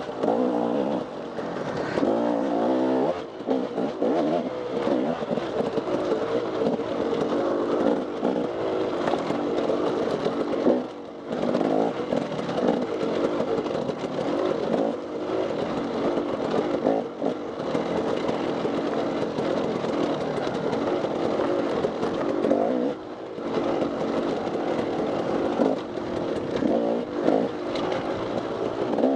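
Dirt bike engine revving up and down continuously as it is ridden hard off-road, with brief throttle-offs about 11 and 23 seconds in.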